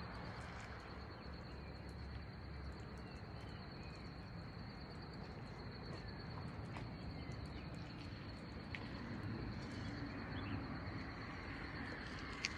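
Insects trilling steadily on one high, rapidly pulsing note over a low, even background hiss, with a few faint bird chirps.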